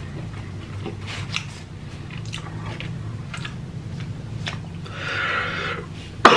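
Close-miked mouth sounds of a person chewing, with scattered small wet clicks. A breathy hiss comes about five seconds in, and a sudden loud cough breaks out right at the end.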